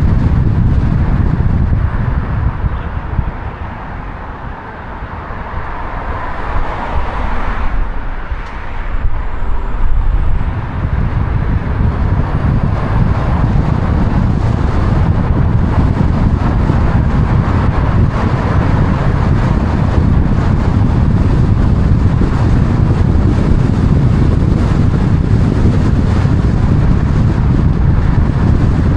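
Steady low rumble of a moving vehicle with wind noise. It eases off for a few seconds about four seconds in, then comes back steady.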